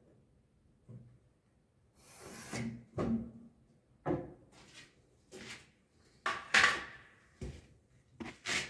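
Wood being handled: a scrape about two seconds in, then a series of separate knocks and clunks, the loudest about six and a half seconds in.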